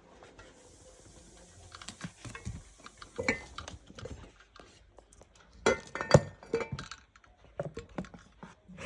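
Irregular clicks, taps and knocks of small hard objects being handled, loudest about three seconds in and again around six seconds in.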